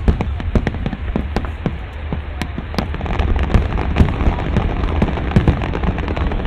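Fireworks display going off: a dense, rapid crackle of sharp pops and cracks, several a second, over a continuous low rumble of bursts.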